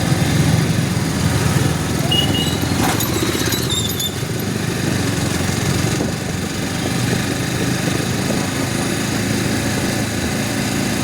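Motorcycle engine running steadily, a low even hum. A brief faint click and a few short high tones come about three seconds in.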